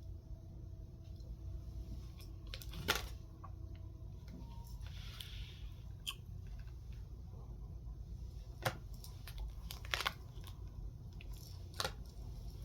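Tarot cards being handled: scattered soft clicks and a brief rustle around five seconds in, over a low steady hum.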